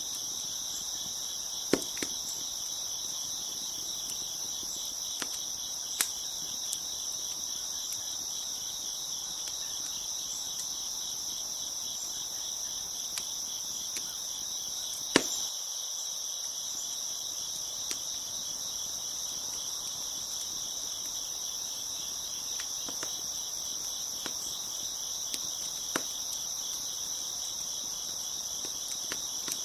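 A chorus of crickets chirping steadily, with scattered sharp pops and crackles from a wood fire, the loudest pop about halfway through.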